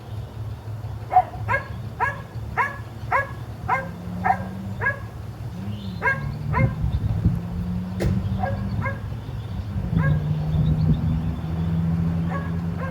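A dog barking repeatedly in quick runs of short barks, about three a second at first and then more scattered. Under it is a steady low engine hum that shifts pitch a couple of times.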